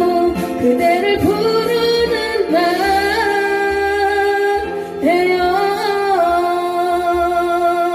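Music: a singer holds long, wavering wordless notes over an instrumental backing, changing note a few times and then sustaining the last one.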